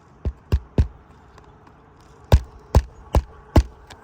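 Hammer driving a roofing nail by hand through an asphalt shingle: three quick strikes, a pause, then four more, about two and a half a second.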